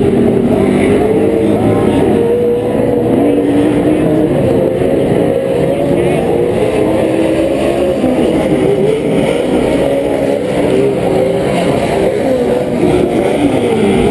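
Several PRO 4 off-road race trucks' V8 engines running hard around the short course, their pitches rising and falling as the drivers accelerate and lift, with a few engines overlapping.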